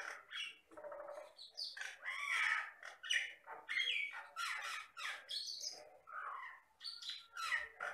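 Common myna (jalak Batam) singing a busy, varied song: a rapid run of whistles, squawks and chattering notes that jump and slide in pitch, with brief pauses.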